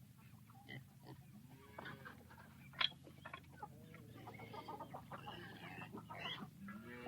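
Chickens clucking, many short calls overlapping, with one louder sharp call nearly three seconds in.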